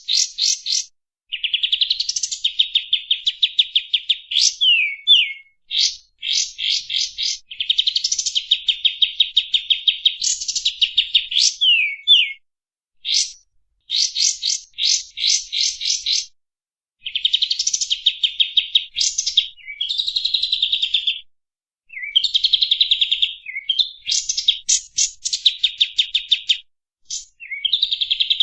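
Kapas tembak songbird singing long, fast chattering trills in repeated phrases, each a few seconds long, with brief pauses and quick whistled slurs between them.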